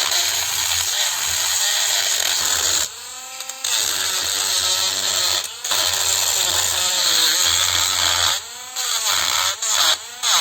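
Handheld power tool running in bursts, its motor winding down and spinning back up several times between bursts.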